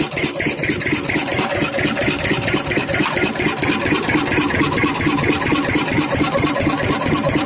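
Diesel engine driving an irrigation water pump, running steadily.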